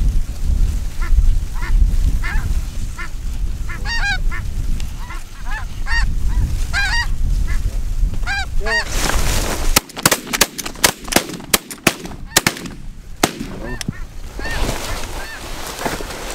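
Snow geese calling, repeated high nasal honks, over wind rumbling on the microphone. About ten seconds in comes a rapid volley of roughly a dozen shotgun shots from several guns, and a few more honks follow near the end.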